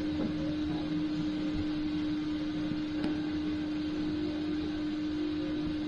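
Inside a moving passenger train coach: a steady hum over the low rumble and hiss of the running train.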